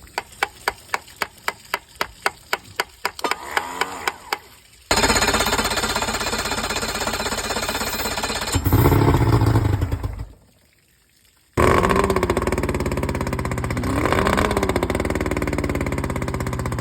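Outboard boat motor cranking over on its starter, about four turns a second, then catching about five seconds in and running, revving up before cutting out for about a second and running again, unevenly. It is running rough after its carburettors were cleaned of water that got into the fuel.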